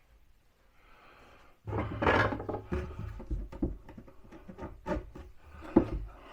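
Scraping and rubbing against wood starts about two seconds in, then gives way to a run of sharp knocks and clatters, the sound of wood and tools being handled while a wall cabinet is fitted.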